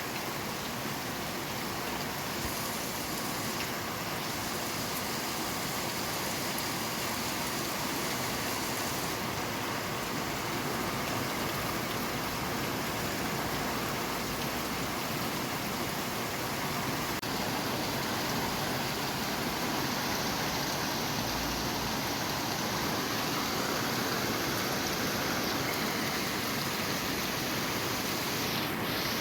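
Steady rain, an even hiss of falling water without let-up.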